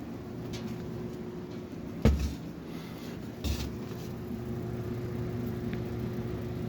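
Dirty Lasko box fan running on high, its motor humming steadily while the blade turns sluggishly; the owner believes it is clogged with dirt and needs oiling. Two dull knocks, about two and three and a half seconds in.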